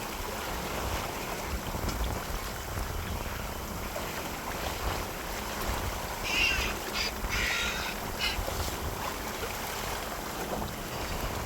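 Birds calling in a short cluster of harsh squawks about halfway through, over a steady wash of water and wind noise.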